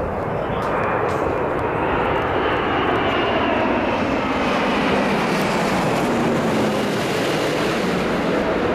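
Airbus A380's four Engine Alliance GP7200 turbofans passing close on landing approach: a loud, steady jet noise with faint whining tones that slide slowly in pitch.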